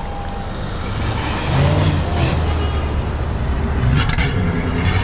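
A car engine running with a low rumble, getting louder about a second and a half in.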